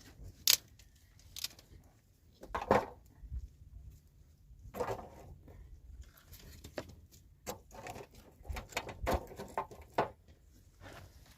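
Irregular handling noises: sharp clicks and knocks with a few short scrapes or rustles, the loudest knocks about half a second and about three seconds in.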